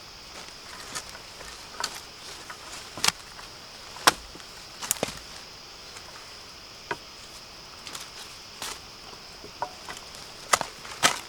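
A blade chopping at bamboo shoots, giving sharp, irregular knocks every second or so, over a steady high-pitched background drone.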